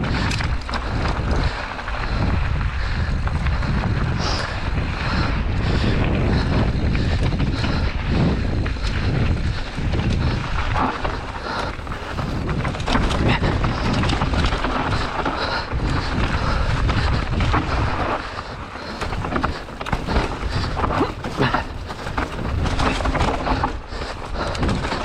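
Mountain bike riding fast down a dirt trail: wind buffets the microphone in a steady low rumble, and the bike's tyres and frame rattle and knock over the bumps.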